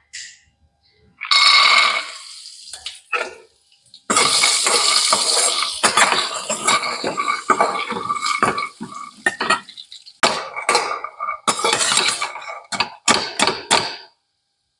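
A spoon stirring and scraping against a metal cooking pan, clattering and scraping continuously for several seconds, then striking in a run of separate sharp knocks near the end.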